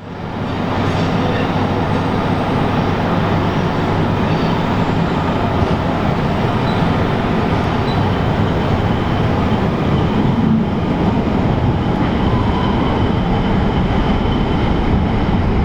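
Rhaetian Railway metre-gauge train running along the track, a steady rumble of running noise that fades in at the start.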